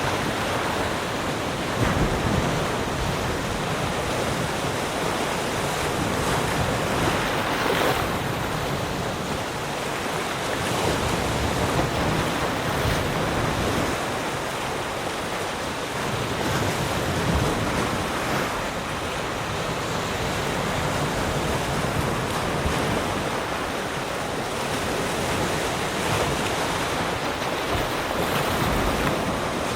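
Ocean waves washing onto a shore: a steady surf hiss that swells and eases every few seconds as the waves break.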